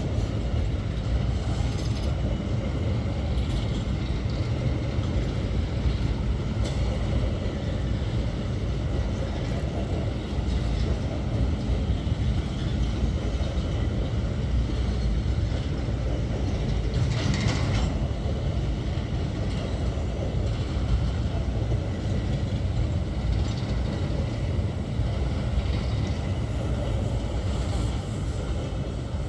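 Empty grain-hopper freight train rolling past, a steady rumble of wagon wheels on the rails, with a brief higher-pitched screech a little past halfway.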